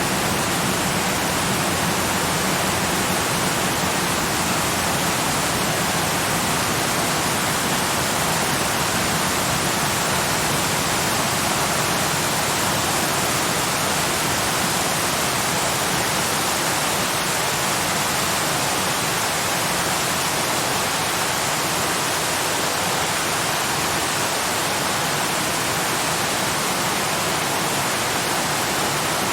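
Waterfall rushing steadily: an even, unbroken hiss of falling water with no distinct splashes or changes.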